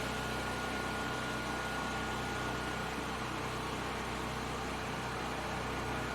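Steady machine hum with a thin, constant high whine over it, unchanging throughout.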